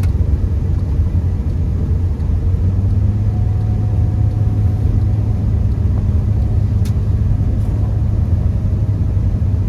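Steady low rumble inside a Honda Accord's cabin while driving on a snowy road: engine and road noise. A single short click comes about seven seconds in.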